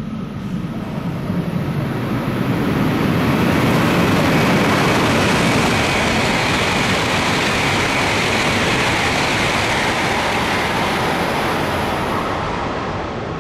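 Shinkansen bullet train passing through a station at full speed without stopping: a loud, even rush of air and wheel noise that builds over the first few seconds, holds, and cuts off abruptly at the end.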